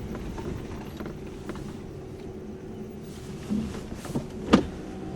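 1995 Chevrolet Monte Carlo heard from inside the cabin, running with a steady low hum. A few light clicks come near the end, then one sharp knock about four and a half seconds in.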